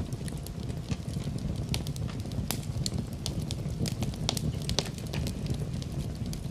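Fireplace fire crackling: a steady low rumble of burning with frequent sharp pops and snaps of the wood, a few of them louder.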